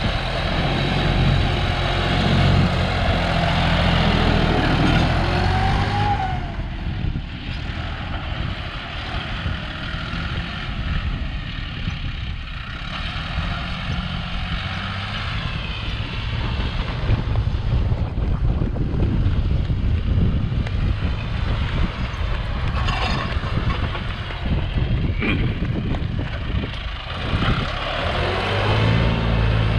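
John Deere 5065E tractor's diesel engine running under the work. Its steady note drops about six seconds in and gives way to a rougher, uneven one, then the steady note comes back near the end.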